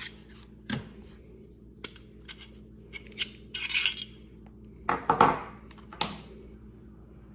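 Glock 48 pistol being field-stripped: a series of separate metallic clicks and clacks, a brief sliding scrape about halfway through, and louder clacks near the end.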